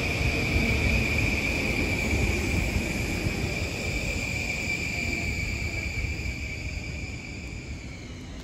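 Long Island Rail Road M9 electric multiple-unit train running past and away: a low rumble with a steady high whine, both fading as the train clears.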